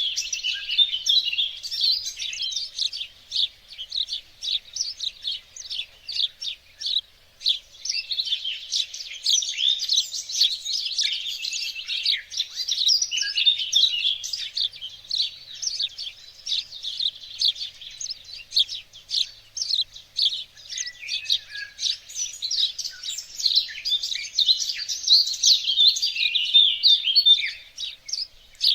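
Songbirds chirping and twittering without a break, many short high calls and trills overlapping.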